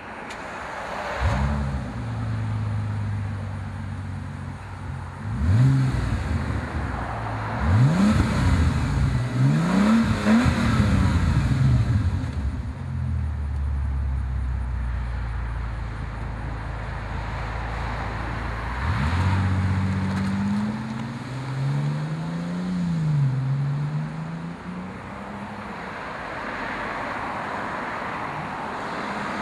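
2007 Bentley Continental GTC's twin-turbo W12 exhaust through a secondary-cat-bypass X-pipe and custom muffler bypass pipes: the engine starts about a second in, is blipped up and down several times, settles into a steady idle, then is revved again.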